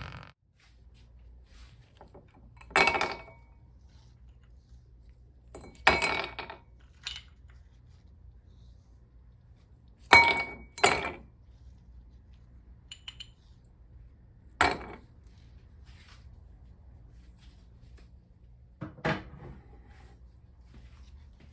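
Kitchenware clinking while an iced drink is put together: six separate sharp clinks a few seconds apart, two of them close together about ten seconds in.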